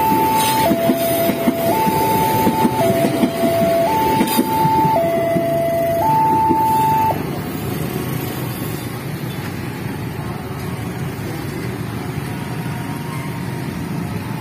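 Railway level crossing's electronic warning alarm sounding a high-low two-tone signal, each tone held about a second, over the rumble and clatter of a train clearing the crossing. The alarm cuts off about seven seconds in, the sign that the crossing is clear, leaving the hum of waiting road traffic.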